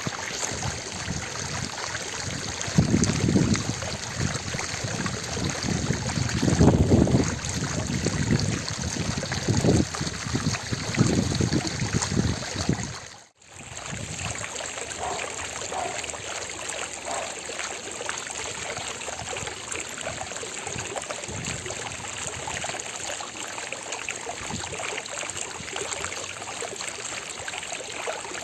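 Water of a fountain splashing and pattering steadily. Low rumbling swells come and go in the first half, the sound drops out for an instant about halfway through, and it then runs on evenly.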